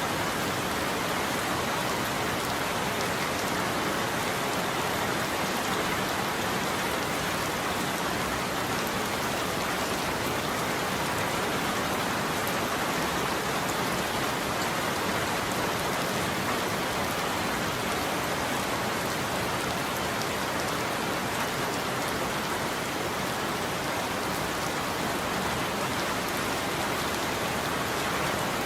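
Steady heavy rain falling, an even hiss of drops with no change in level and no thunderclap.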